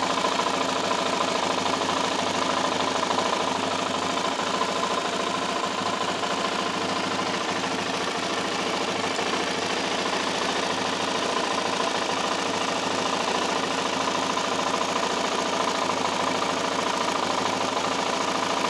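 Suzuki LT-Z400 quad's single-cylinder four-stroke engine idling steadily, with a fast even ticking: the ticking noise that the owner is trying to trace.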